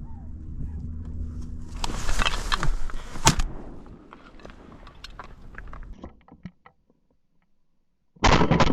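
Loud rustling and crackling of a brush-covered kayak blind with one sharp crack at its peak, about three seconds in, dying away into scattered crackles. A short loud noise comes near the end.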